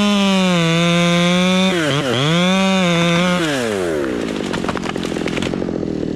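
Two-stroke chainsaw running at full throttle, its pitch dipping briefly twice, then let off about three and a half seconds in and settling to a rough, uneven idle.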